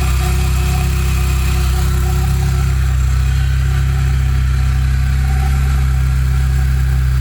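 Volkswagen Pointer engine idling steadily, the running sound in which the owner hears a strange noise.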